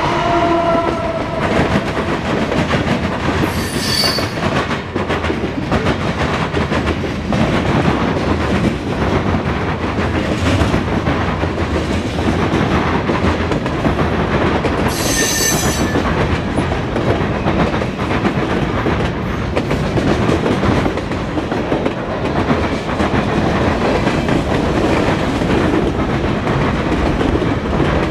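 Freight train passing close by. The locomotive's horn trails off about a second in, then the freight cars rumble and clickety-clack past, with two brief high wheel squeals, about four and about fifteen seconds in.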